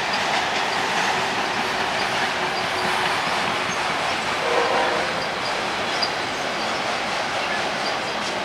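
Autorack cars of a freight vehicle train rolling past: a steady roar of steel wheels on rail with some clickety-clack, and a brief higher tone about halfway through.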